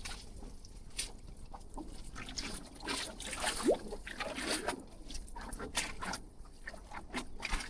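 Water sloshing and slapping irregularly against the wharf pilings, with many small splashes and knocks. A brief rising squeak comes about four seconds in.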